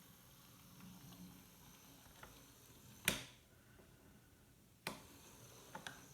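Hornby Peckett W4 OO gauge model locomotive running, a faint low hum broken by sharp clicks: a loud one about three seconds in, another near five seconds and a quick pair just before the end.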